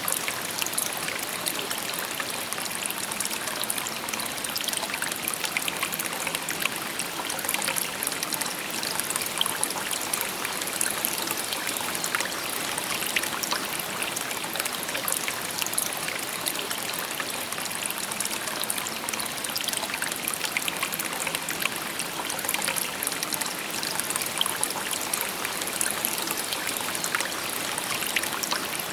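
A shallow river burbling steadily over stones, with a constant rush of water and many small splashes and trickles.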